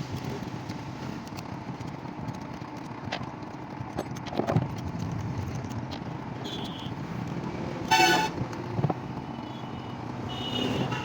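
Steady low rumble of background noise, with a short vehicle horn toot about eight seconds in.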